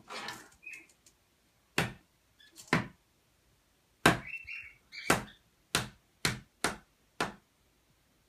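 African grey parrot making a series of about ten sharp knocks at irregular spacing, bunched closer together in the second half, with a few short, soft chirps between them.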